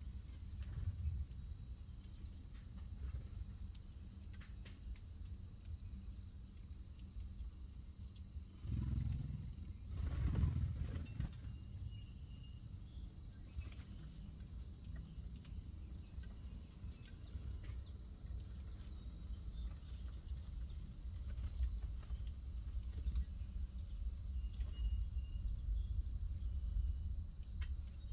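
Backyard outdoor ambience: a steady low rumble with a constant high hum, and scattered faint, short bird chirps. The rumble swells louder for a couple of seconds about nine seconds in.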